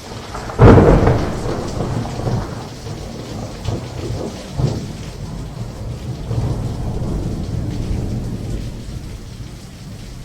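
Monsoon thunderstorm: a sudden loud thunderclap about half a second in, rolling on for a few seconds, with further rumbles, over steady rain.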